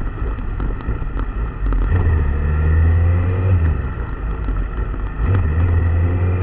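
An engine running, with a low hum that swells and eases off in stretches, faint slowly rising tones and scattered light clicks.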